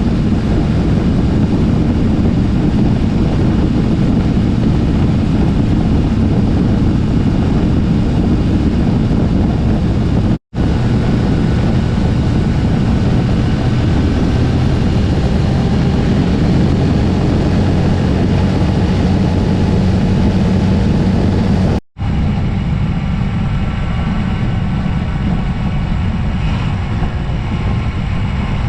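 Yamaha Tracer 9 GT three-cylinder motorcycle running at a steady cruise, its engine drone mixed with wind rush on the camera microphone. The sound cuts out abruptly twice, about a third and about two-thirds of the way in, and is duller after the second break.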